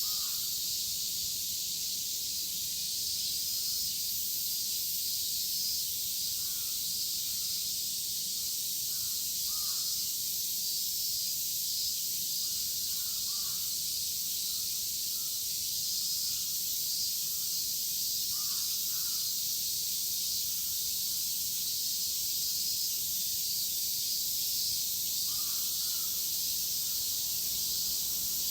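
Dense chorus of cicadas, a steady high hiss throughout, with crows cawing now and then: short calls in about six scattered groups.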